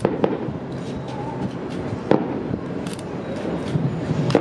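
Fireworks going off: a few sharp bangs, the loudest about two seconds in and another near the end, over a steady background din.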